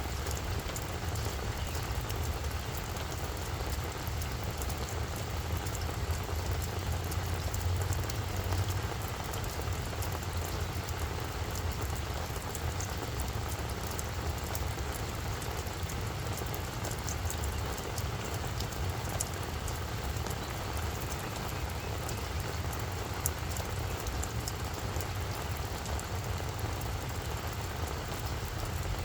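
Steady rain falling on a flower bed: an even hiss dotted with many small, sharp drop ticks, over a steady low rumble.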